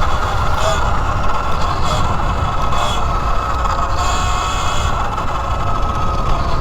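E Ride Pro SS electric dirt bike's motor whining steadily while riding, with wind rumbling on the microphone.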